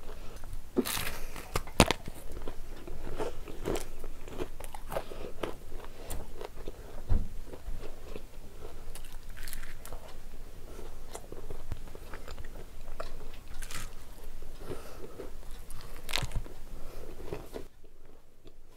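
A person biting and chewing a crisp fried kachori: many irregular crunches and wet chewing noises close up, growing quieter near the end.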